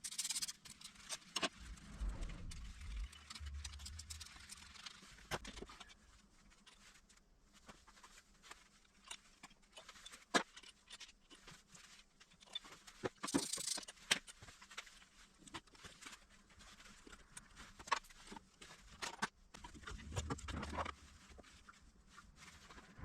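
Scattered light clicks and knocks of hand tools and metal engine parts being handled, with short bursts of scraping, during work on a K6A engine's cylinder head and head gasket.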